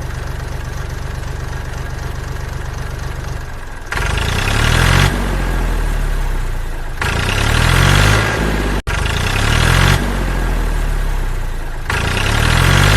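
Tractor engine idling steadily, then revving up again and again: its pitch rises about four seconds in and climbs three more times before the end.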